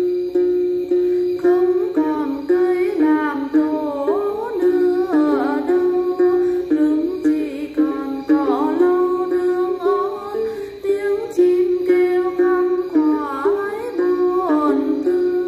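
Đàn tính, the long-necked gourd lute of Then singing, playing a fast plucked melody of short, quick notes. A few swooping, gliding tones rise and fall above it at several points.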